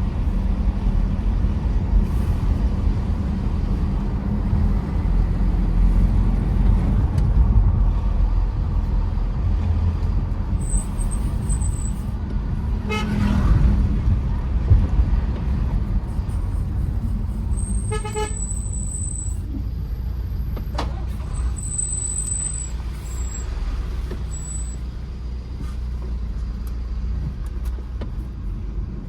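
Tata Safari Storme's diesel engine and road noise as a steady low drone while driving. A vehicle horn sounds briefly about halfway through, then again for over a second a few seconds later.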